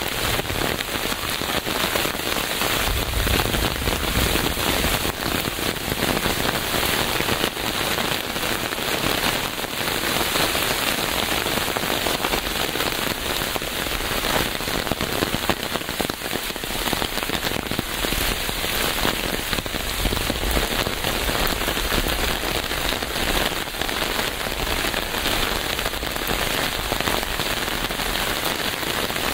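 Steady rain falling on a surface, a dense even patter of drops with many small ticks, and a low rumble coming and going underneath.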